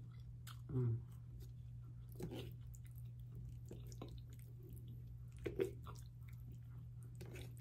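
A person chewing a buttery garlic knot close to the microphone: soft wet mouth sounds with scattered small clicks.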